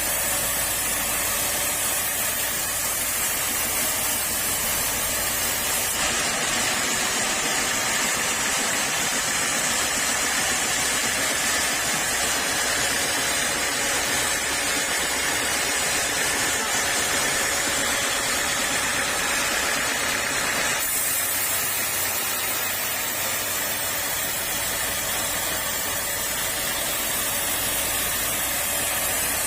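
Sawmill saw running and cutting teak, a steady loud noise that shifts abruptly in tone about six seconds in and again about twenty-one seconds in.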